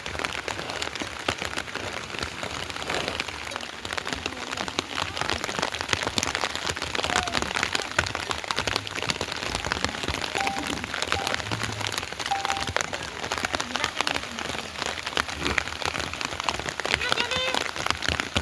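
Steady rain falling and pattering on surfaces, with a dense scatter of drop impacts.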